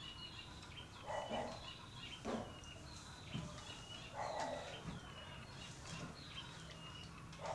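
Faint birds chirping, repeated short high calls that fall in pitch, with a few soft rustling noises in between.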